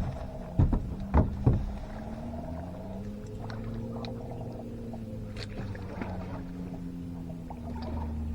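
Boat motor running with a steady hum that shifts in pitch a few seconds in. Three sharp knocks come in the first two seconds.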